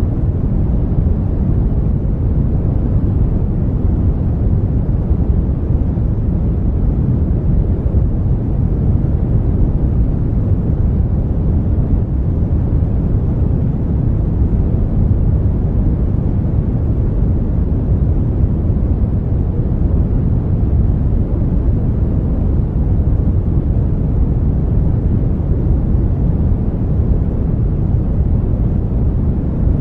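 Brown noise: a steady, even rumbling hiss, deep and weighted toward the low end, with no changes or events.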